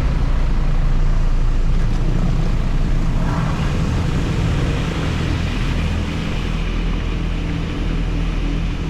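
Automated touch-free car wash running: a loud, steady rush and rumble of machinery and spray, with a hiss that grows brighter about three seconds in.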